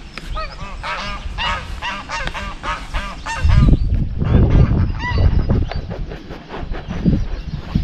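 Geese honking, a rapid run of repeated calls in the first three seconds, with a few more calls later. From about three and a half seconds in, a loud low rumble takes over and is the loudest sound.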